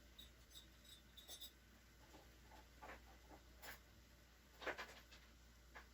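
Near silence: room tone with a few faint clicks and taps, a small cluster in the first second and a half and a few single ones later.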